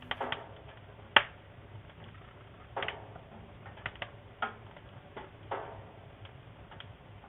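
Wood fire burning in a fireplace, crackling with irregular sharp pops and snaps; the loudest snap comes about a second in.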